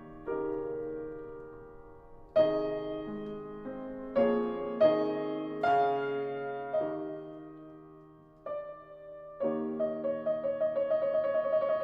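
Background piano music: slow chords that ring and fade, with a quick repeating figure coming in near the end.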